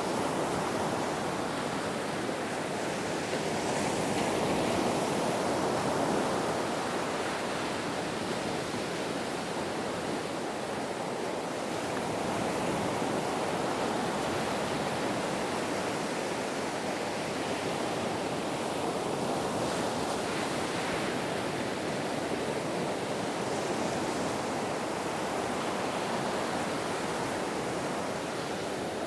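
Ocean waves washing ashore as a continuous surf rush that swells and eases gently.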